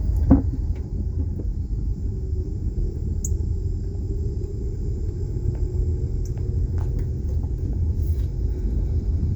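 Low, steady rumble of a car driving slowly, heard from inside the cabin, with a faint steady high hiss above it. A single brief knock comes just after the start.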